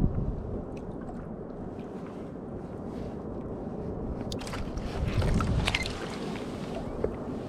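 Sit-on-top kayak being paddled on the sea: water splashing and trickling off the paddle and around the hull, louder for a stretch about halfway through, over a steady low rumble of wind on the microphone.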